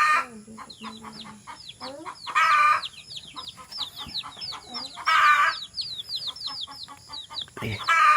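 Chickens: a constant run of short, high, falling chirps like chicks peeping, with a louder call of about half a second from a grown bird repeating about every two and a half seconds.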